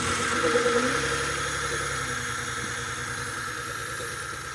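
Hyundai Tiburon engine running just after catching, its idle easing down slightly. It runs rough with a misfire that persists even with a brand-new spark plug fitted.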